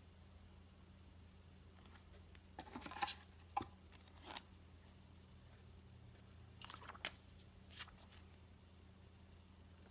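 Faint paper and packaging handling: a few short rustles and crinkles of printed booklets being taken out, around three to four seconds in and again around seven, over a low steady hum.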